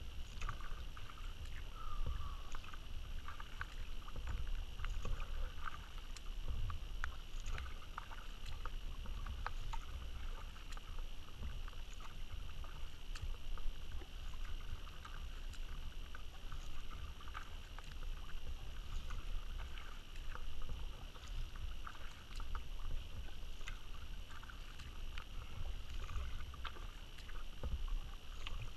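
Kayak being paddled: a steady low rumble under many small splashes and drips of water.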